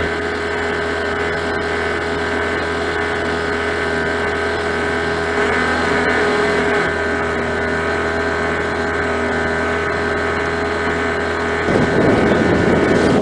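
Small outboard motor pushing a Catalina 22 sailboat, running at a steady speed. About a second before the end it cuts off suddenly, giving way to wind buffeting the microphone.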